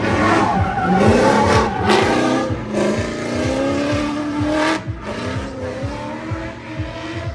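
Drift car's engine revving hard during a drift run, its pitch climbing in long pulls, then dropping off abruptly a little before five seconds in as the throttle is released.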